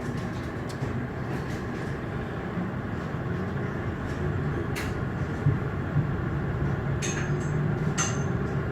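Frankfurt U-Bahn line U8 train running between stations, heard from inside the car: a steady rumble of wheels on the track, slowly getting a little louder, with a few sharp clicks.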